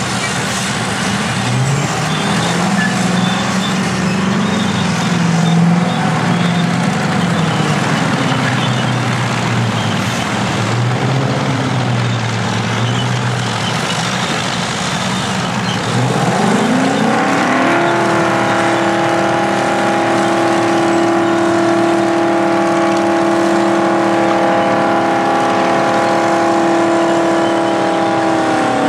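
Engines of vintage earthmoving machines (bulldozers and scrapers) working, their pitch rising and falling with the load. About 16 seconds in, one engine revs up to a high, steady pitch and holds it for around twelve seconds, dropping off near the end.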